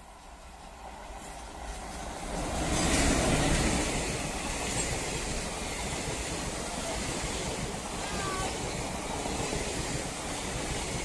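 Indian Railways express train passing at speed on the next track. The sound swells as it approaches, is loudest as the locomotive goes by about three seconds in, then becomes the steady rush of the coaches running past.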